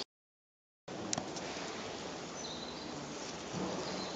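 Forest ambience: a steady outdoor hiss with a few faint, high bird chirps, and a single sharp click about a second in. The sound drops out completely for the first second.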